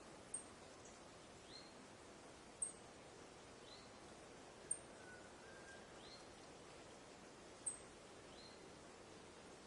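Faint forest ambience: a soft steady hiss, with a small bird giving four short, very high chirps about every two to three seconds, each followed about a second later by a fainter rising note. A faint low whistle comes about halfway through.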